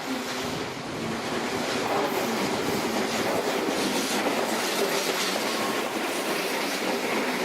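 Train passing close by, its wheels clattering over the rail joints. The sound swells over the first two seconds or so, then holds steady.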